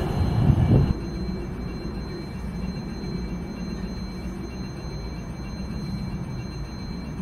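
Loud train noise cuts off abruptly about a second in. A steady low rumble follows, with two faint, steady, high-pitched whines.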